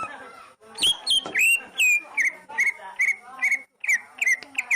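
Oriental magpie-robin (kacer) singing: a fast, varied string of sharp whistled notes and chirps, with a run of near-identical repeated notes through the middle.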